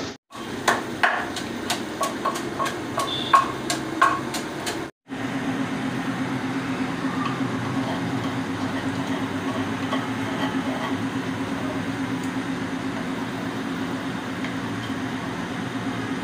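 A metal spoon knocking and clinking against a cooking pot, about a dozen sharp strikes over four seconds, some with a short ring. After a sudden cut comes a steady hum.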